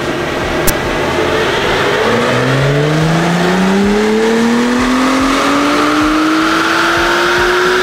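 Acura NSX Type S's twin-turbo V6 running on a chassis dyno during a pull: from about two seconds in, the engine note climbs steadily and smoothly in pitch through the revs. Underneath is a constant rush of noise from the dyno rollers and cooling fan.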